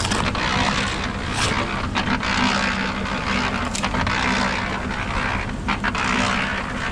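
Steady machine noise: a low hum under a loud hiss, with a few short clicks.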